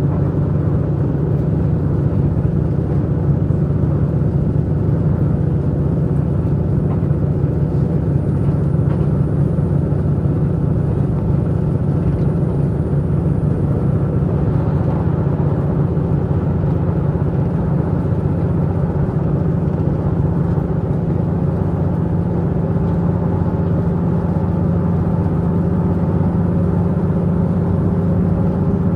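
Diesel Tze-Chiang multiple unit's underfloor diesel engine running steadily while the train travels, heard from inside the carriage as a constant low drone over the train's running noise.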